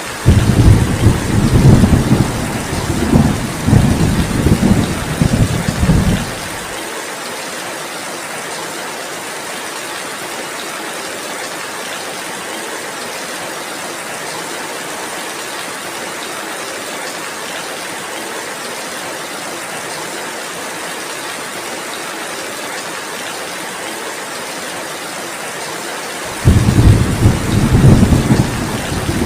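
Steady heavy rain with thunder rumbling twice: a deep rumble for the first six seconds that cuts off suddenly, then another starting abruptly near the end.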